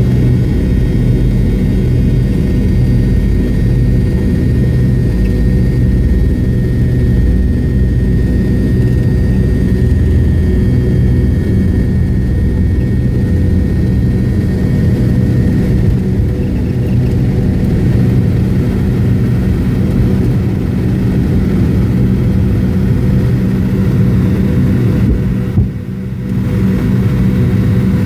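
McDonnell Douglas MD-88's twin rear-mounted JT8D turbofan engines running at takeoff power: a loud, steady rumble with a high whine that fades out about halfway through. The noise dips briefly near the end.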